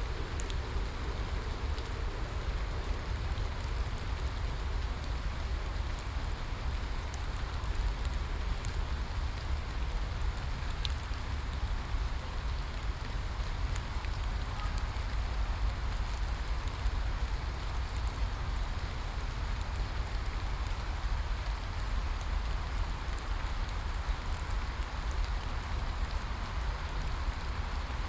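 Steady rain falling, a constant even hiss with scattered individual drop ticks and a steady low rumble underneath.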